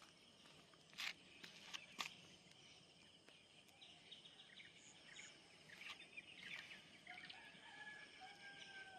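Faint outdoor ambience with scattered bird chirps and two sharp clicks about one and two seconds in. Near the end comes one long, drawn-out bird call, such as a distant rooster crowing.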